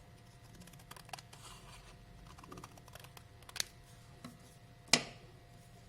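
Scissors cutting a square of crepe paper in half diagonally: faint paper rustling and light snips, with two sharper snips, the louder near the end.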